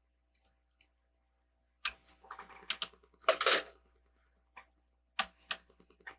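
Plastic Lego bricks clicking and clattering as pieces are handled and pressed together. A cluster of clicks and a short rattle about two to three and a half seconds in, then a few more clicks near the end.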